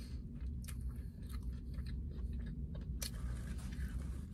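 Close-up chewing of a mouthful of falafel and pita, with scattered wet mouth clicks and a few soft crunches, over a steady low hum.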